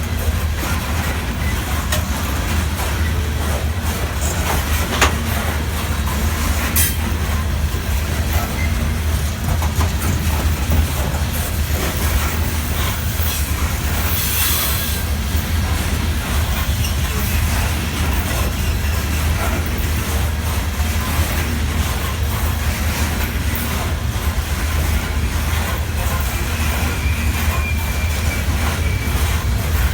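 Norfolk Southern freight train rolling past: a steady low rumble of cars on the rails with scattered clanks and knocks from the wheels. A faint wheel squeal sounds briefly near the end.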